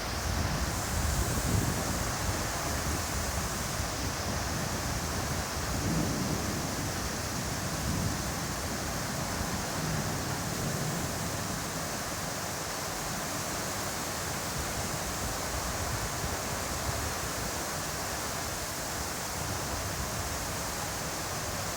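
Heavy rain in strong wind: a steady hiss of rain, with wind buffeting the microphone as a gusty low rumble.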